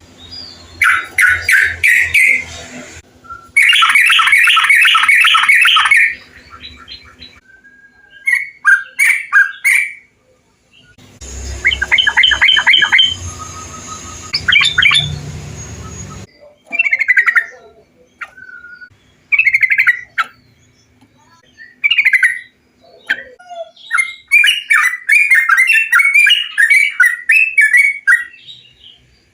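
Yellow-vented bulbuls (trucukan) singing: loud, bubbly chattering phrases of quick repeated notes, one after another with short pauses between them. The phrases come from several recordings joined end to end, so the background hiss changes suddenly a few times.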